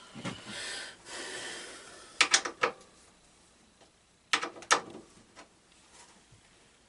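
Hand-work on a lawn tractor while disconnecting its wiring: a brief scraping rustle, then two quick clusters of sharp metallic clicks and knocks a couple of seconds apart.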